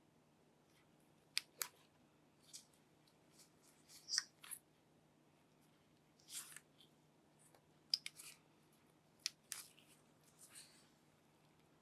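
Scattered small clicks, taps and short crinkles of hands handling a phone and its packaging, at irregular intervals over a faint steady hum.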